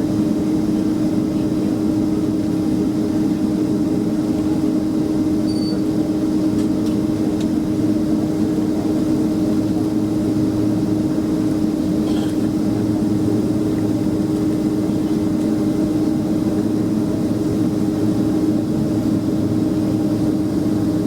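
Boeing 767-300ER cabin noise in flight: a steady rumble of jet engines and airflow over the fuselage, with a constant low hum throughout.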